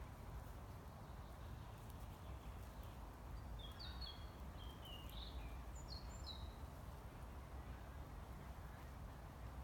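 A small songbird gives a short run of high chirping notes about four seconds in, lasting around three seconds, over a steady low outdoor background rumble.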